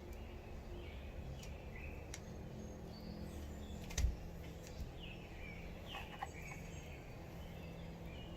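Birds chirping in short scattered calls over a steady low background rumble, with one sharp crack about four seconds in and a few fainter ticks.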